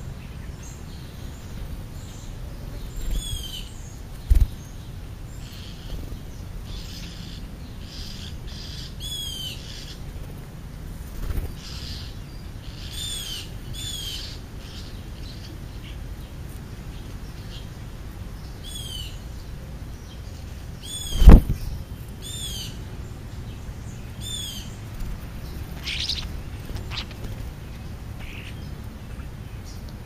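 Wild birds calling, short downward-sliding calls repeated every few seconds, with a single loud thump about two-thirds of the way through.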